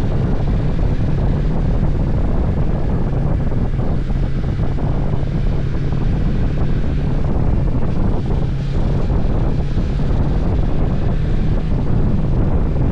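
Motorcycle ride heard from an on-bike camera: wind rushing over the microphone over a steady low engine drone, with no change in speed or revving.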